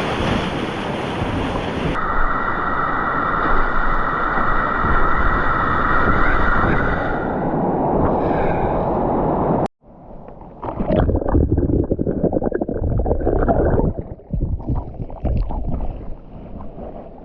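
Rushing river water and wind on the microphone, cut together from several clips. It is a steady, loud rush at first, then after a brief dropout about ten seconds in it turns into uneven, gusty buffeting.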